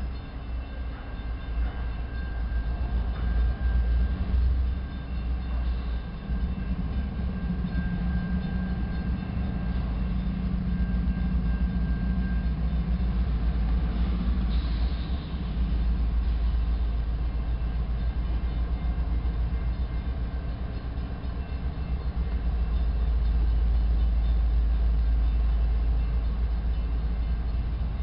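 GE ES44-series diesel-electric locomotives working a freight train pulling out from a standstill, giving a deep, steady engine rumble. A thin, steady high whine runs over it for about the first twelve seconds.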